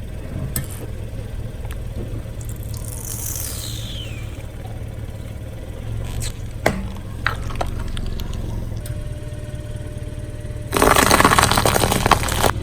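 Car engine idling steadily, with a few sharp clicks. Near the end comes a loud crackling crunch lasting about two seconds as the tyre crushes something.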